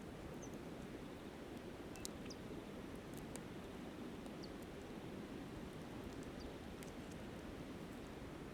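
Steady rushing of a flowing river, with scattered faint crackles and pops from a campfire and a few brief high chirps.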